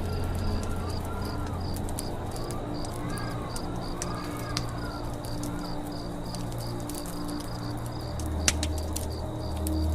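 Campfire crackling, with frequent small pops and one louder pop about eight and a half seconds in. Behind it, a high chirp repeats about three times a second and birds call.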